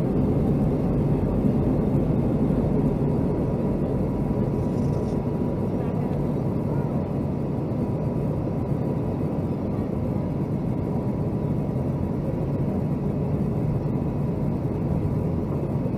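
Steady jet engine and airflow noise heard inside the passenger cabin of a Boeing 757-200 airliner, with a faint steady whine running through it from a few seconds in.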